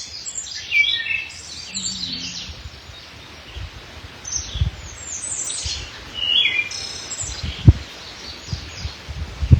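Wild songbirds singing, several quick chirps and trills overlapping, with a few short low thumps, the loudest about three quarters of the way through.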